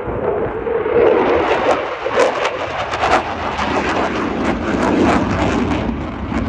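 Eurofighter Typhoon's twin EJ200 turbofan jet engines, heard as a loud, steady roar. From about a second in the roar breaks into rapid, ragged crackling.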